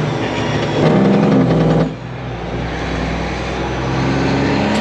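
Kenworth truck's Detroit Diesel engine pulling on the road. The engine note cuts back sharply about two seconds in, as the throttle lifts for a gear change, then pulls steadily again.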